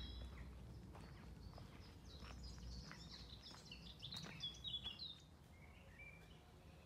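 Faint woodland birdsong: a run of high chirps and twitters that starts about two seconds in and stops about five seconds in, over a low, steady rumble.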